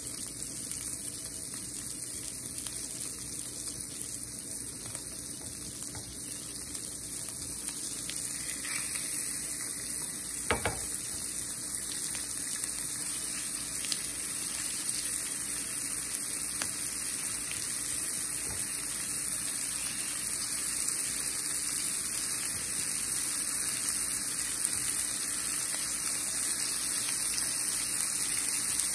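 Floured chicken thighs searing in hot olive oil in a cast-iron skillet: a steady sizzle that slowly grows louder as more pieces go into the pan, with a couple of light knocks, the sharpest about ten seconds in.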